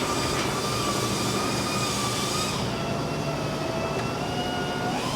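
A vehicle on the move: steady road and engine noise with faint drifting whine tones. The high hiss drops away about two and a half seconds in.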